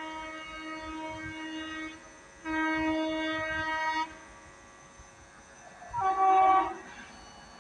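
Indian Railways locomotive horn sounding three blasts: a long blast that ends about two seconds in, a second one about a second and a half long at the same pitch, then a shorter, louder, higher-pitched blast about six seconds in.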